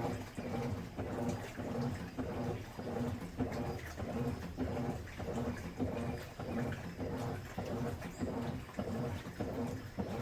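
Midea Wave-Agitator top-load washing machine agitating a load in water: the motor hum and the sloshing of water and clothes pulse about twice a second.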